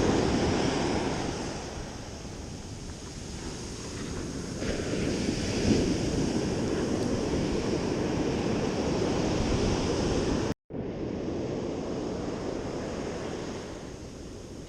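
Ocean surf washing onto the beach, swelling and easing, with wind on the microphone. The sound cuts out for a split second about ten and a half seconds in.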